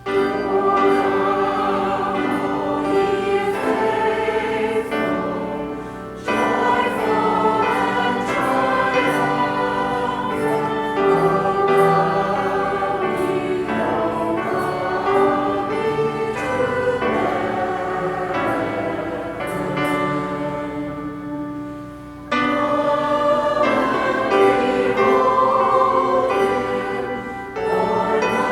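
Church choir singing in sustained phrases, with brief breaks about six seconds in and again about 22 seconds in.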